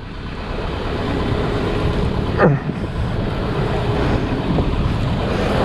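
Steady wind and water noise aboard a sailboat underway, growing slightly louder, with a brief short sound about two and a half seconds in.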